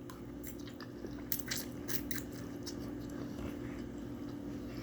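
A person chewing and biting food close to the microphone: scattered wet clicks and soft crunches of mouth sounds, over a steady low hum.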